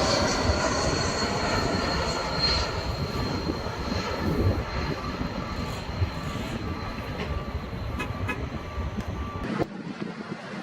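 Roshel Senator armored truck's engine running, a steady low rumble with a thin high whine over it, both stopping abruptly near the end.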